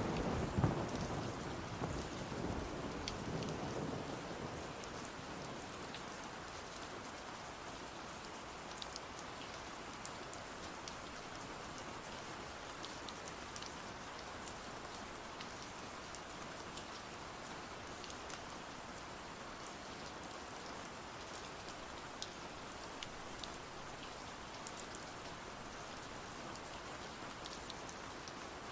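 Steady rain falling, with scattered drips and patters. The tail of a thunder rumble dies away over the first few seconds.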